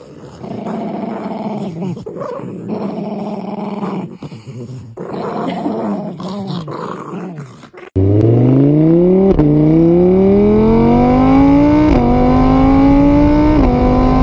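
A dog growls and grumbles in a run of short calls. About eight seconds in, a louder car engine takes over, accelerating, its pitch climbing and dropping sharply at three gear changes.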